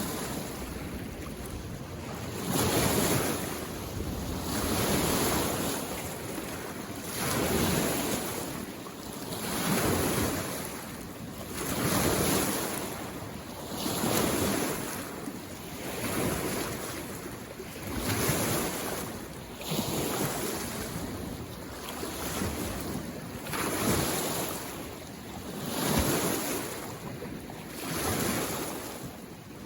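Small waves on a mountain lake washing in, each one a soft swell of water noise, coming in a steady rhythm about every two seconds.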